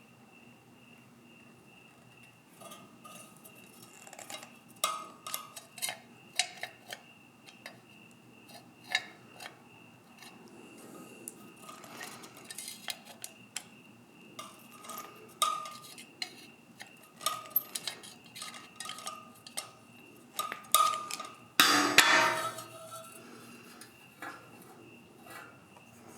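Metal parts clinking and knocking as they are handled: irregular taps with short ringing, and a louder clatter about 22 seconds in.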